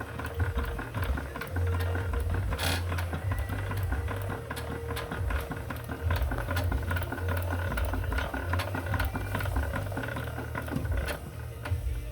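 Twin-cylinder live-steam model traction engine running: a fast, steady mechanical clatter of its motion and valve gear, over a low background beat.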